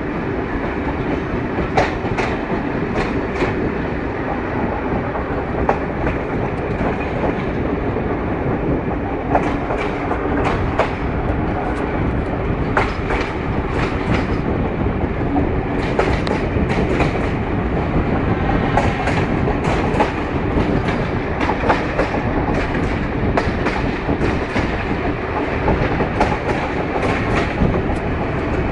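Passenger train running, heard from the carriage window: a steady rumble of wheels on rail, with clusters of clickety-clack clicks every few seconds as the wheels pass over rail joints.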